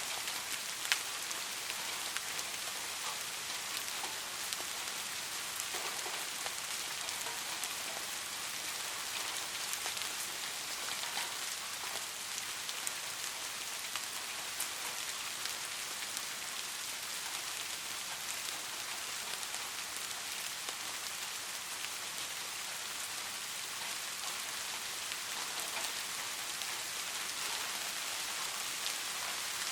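Steady rain falling, a fine high hiss scattered with individual drop taps, one sharper tap about a second in.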